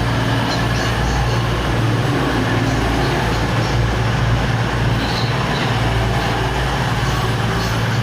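Class 222 Meridian diesel multiple unit's underfloor diesel engines running with a steady low drone.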